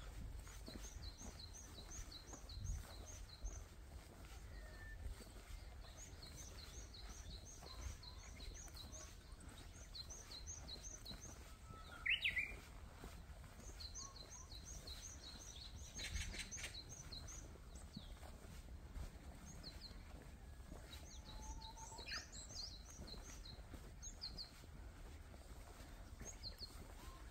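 Small birds singing: phrases of rapid, evenly spaced high thin notes, repeated every few seconds, over a faint low rumble. A brief, louder rising sound comes about twelve seconds in.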